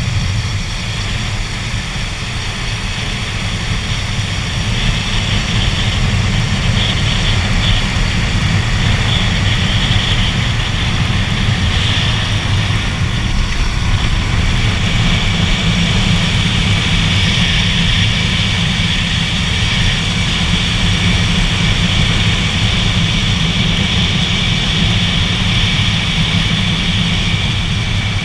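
Kawasaki Ninja 250 sport bike's engine running steadily, with a continuous low rumble and a hiss, a little louder after the first few seconds.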